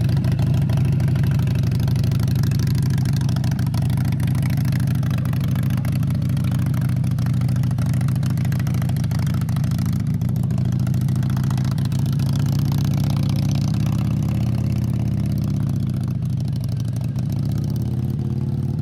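Motorcycle engine idling, with its pitch dipping and then rising again a few seconds before the end.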